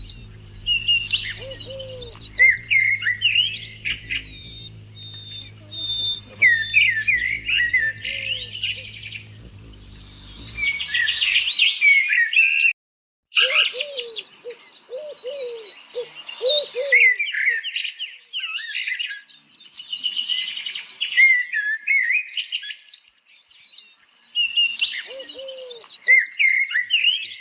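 Birds chirping and chattering in busy bursts of a few seconds each, many quick high notes with a few lower calls mixed in. A low hum lies under the first part, and the sound cuts out completely for a moment about halfway through.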